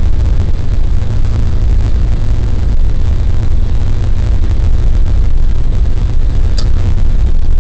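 Steady, loud low rumble of a Boeing 737-800 on its landing roll just after touchdown, with a single sharp click about six and a half seconds in.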